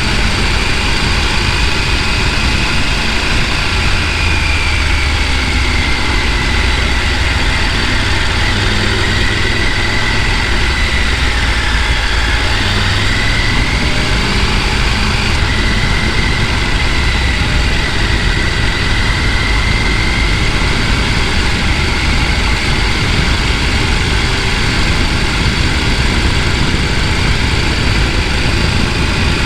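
Mountain stream rushing over rocks: a loud, steady rush of water.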